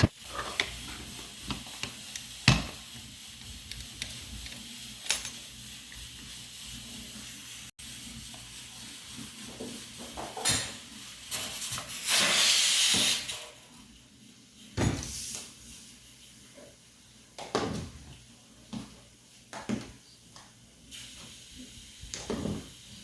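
Kitchen cooking sounds: a steady hiss with scattered clinks and knocks of pots and utensils, and a loud rush of hissing about twelve seconds in that lasts over a second.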